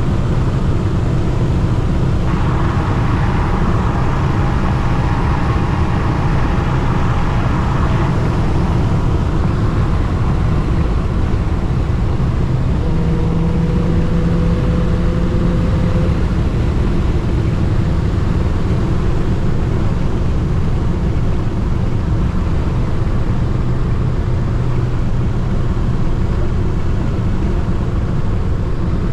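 Steady engine and road drone heard inside a moving Dodge Hellcat Redeye, its supercharged V8 running at an even, unchanging level. A faint steady tone joins briefly about halfway through.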